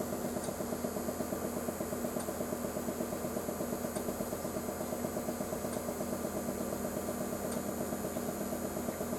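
A machine running steadily: an even hum with a fast regular pulsing, about seven beats a second, and a faint high tick every second and a half or so.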